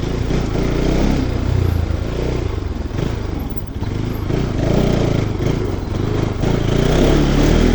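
Bajaj Pulsar NS200 single-cylinder motorcycle engine running while being ridden, its sound swelling and dipping.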